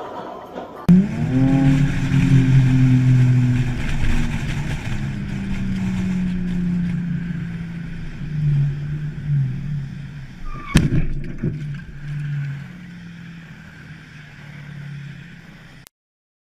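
Car engine revving up suddenly about a second in, then running hard at fairly steady revs that slowly ease off. A single sharp knock comes about eleven seconds in, and the sound cuts off abruptly just before the end.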